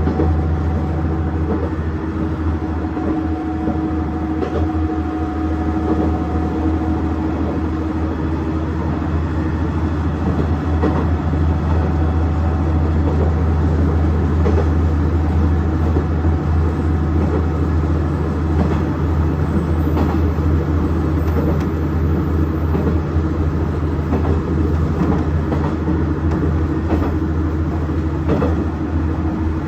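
KiHa 110 series diesel railcar running along the line: its diesel engine makes a steady low drone, mixed with wheel and rail noise and occasional faint clicks from the wheels.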